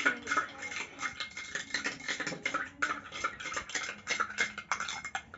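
A spoon stirring foamy soapy water in a glass, clinking rapidly and irregularly against the sides.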